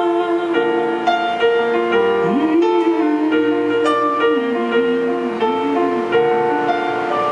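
Piano playing the slow closing bars of a song, sustained chords changing every half-second or so, with a wavering held note in the middle.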